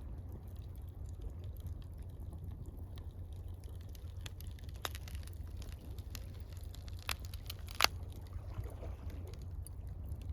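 Campfire crackling with a few sharp pops, the loudest about eight seconds in, over gentle water and a steady low rumble.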